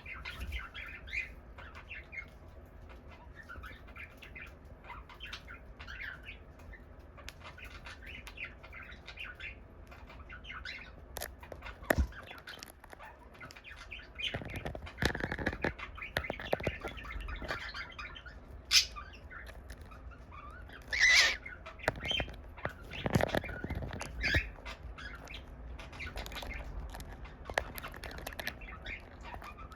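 Pet cockatiel chirping in short, soft calls, with a few sharp clicks and knocks. There are louder bursts of rustling noise about halfway through and again a little later.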